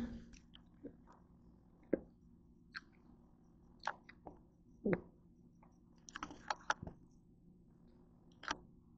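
Someone chewing grilled potato bread close to the microphone: scattered short mouth clicks, with a quick cluster of them about six seconds in.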